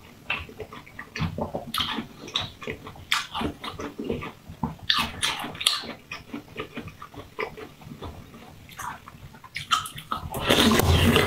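Mouth sounds of eating a pink translucent candy block: wet chewing and lip smacking with a string of short, crisp clicks. Near the end comes a louder, denser crunch as a fresh bite is taken.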